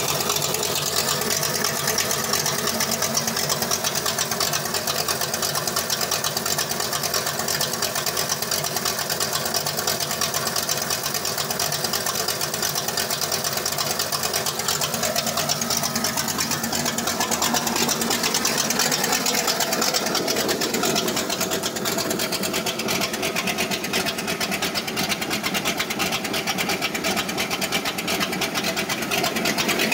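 The Mustang's freshly built 5.0 V8 idling steadily with a fast, even ticking pulse; the engine has run less than two hours. It is heard first from behind the car and later from inside the cabin.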